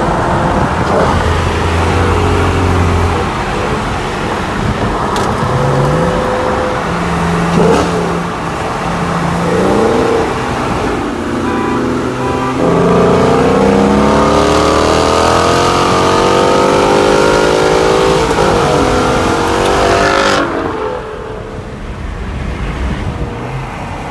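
Engines of a bolt-on BMW 335i and a bolt-on 5.0 Mustang racing side by side. A steady low drone gives way to hard acceleration, revving up through several gear changes, and the sound drops away abruptly about twenty seconds in.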